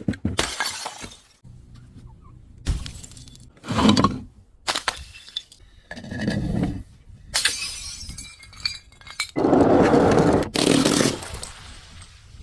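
Glass bottles being broken and crushed: a series of separate crunching, shattering bursts, with the longest and loudest near the end.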